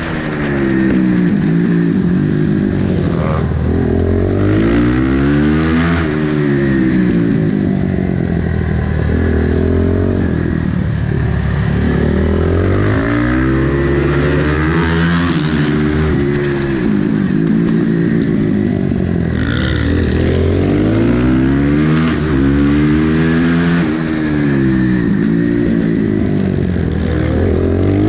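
Supermotard racing motorcycle engine under hard acceleration and braking, its pitch climbing through each gear and falling back, over and over.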